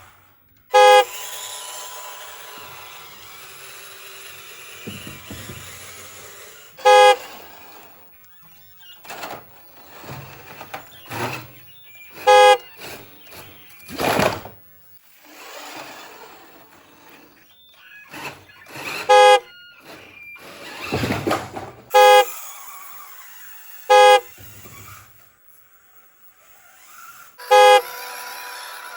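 Electronic horn on a toy remote-control truck giving about seven short toots at irregular intervals, the loudest sounds here. Bursts of noisy sound from the toys come in between.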